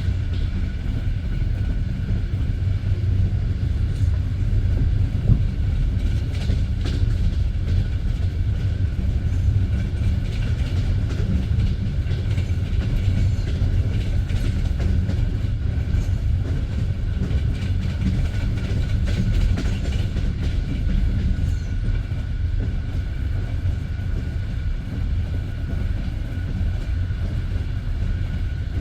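Passenger train carriage running along the line: a steady low rumble with the clack of wheels over the rails.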